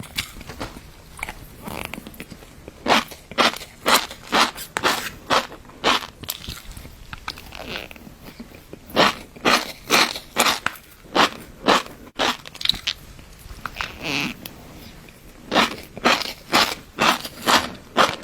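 Close-miked crunchy chewing of fish roe: runs of crisp crunches about two to three a second, coming in three bursts with softer chewing between.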